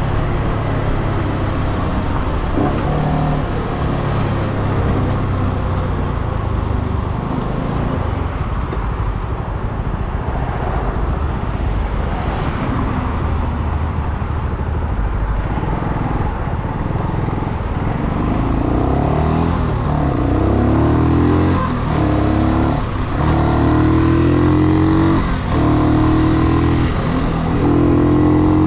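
Brixton Cromwell 250's single-cylinder engine running while riding. It is fairly steady at first, then in the second half the revs climb several times, each climb cut by a brief dip as a gear is changed.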